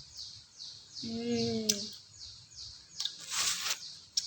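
A small bird chirping over and over, short high falling chirps about two and a half a second, which stop about two seconds in. A brief hummed voice about a second in and a short hiss near the end.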